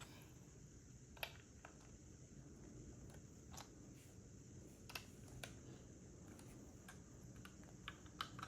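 Plastic LEGO pieces being handled and pressed together: a few sharp, scattered clicks and taps over a quiet hiss.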